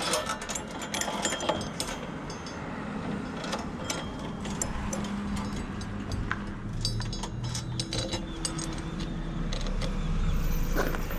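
Tillotson 212 single-cylinder four-stroke engine on a Coleman CT100U mini bike running, its pitch shifting a little, with a lot of loose metal rattling and clicking over it.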